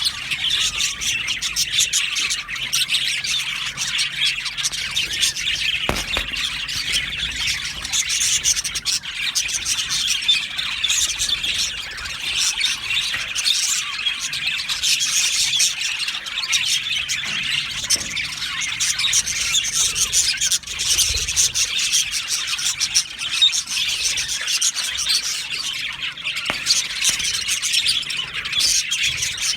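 A colony of budgerigars chattering, chirping and squawking together without pause, many birds warbling over one another.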